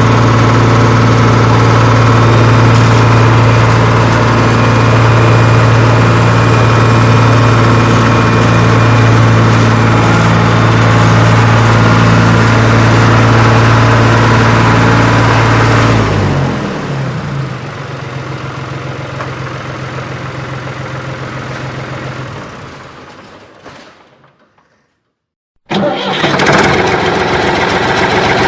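Tractor engine running steadily and loud. About two-thirds of the way through it drops away and fades out to silence, then engine noise cuts back in abruptly near the end.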